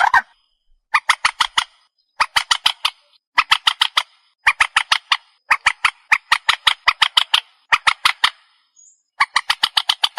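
Swamphen calls: loud, harsh squawking notes given in rapid runs of about four to eight, the runs repeating every second or so.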